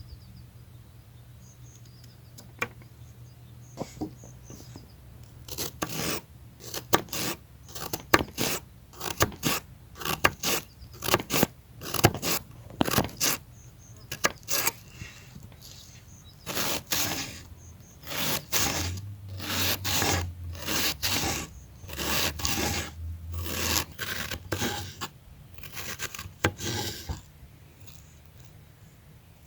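Knife working vegetables against a wooden board by hand: uneven scraping and cutting strokes that begin a few seconds in and come longer and closer together in the middle.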